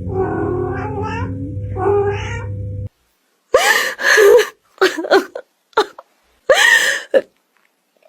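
Cat meowing: two meows over a steady low hum, then after a short break a run of about five louder, drawn-out meows and yowls.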